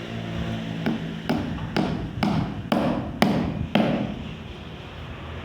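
Tool striking bamboo in seven sharp knocks, about two a second, each with a short hollow ring.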